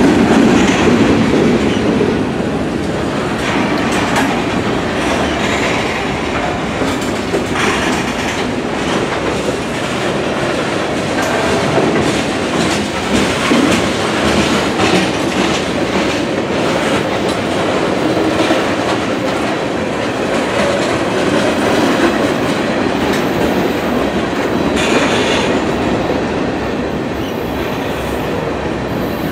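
Freight train of covered hopper cars and tank cars rolling past up close: a steady rumble and roar of steel wheels on the rails, broken by irregular wheel clacks.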